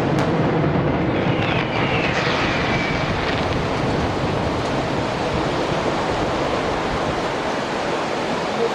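Fireworks display: a dense, continuous rumble of firework bursts, with a brief whistling tone about one to three seconds in.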